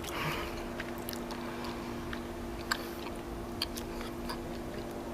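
Bubblegum being chewed and worked in the mouth: soft, irregular wet clicks and smacks, over a faint steady hum.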